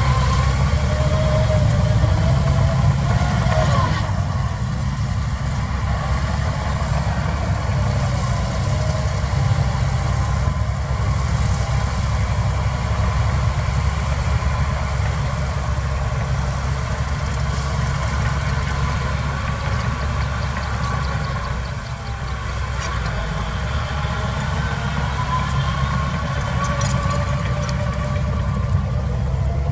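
Heavy diesel engines of earthmoving machines running steadily, with a deep low rumble and small rises and falls in pitch.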